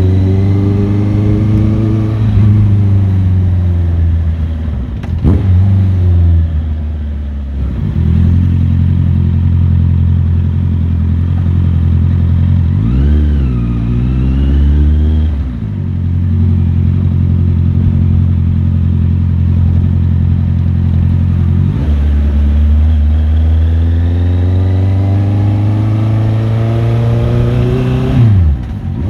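Motorcycle engine running under way, mostly holding steady revs, with the pitch dipping and climbing again about halfway through and rising then dropping sharply near the end as the gears change.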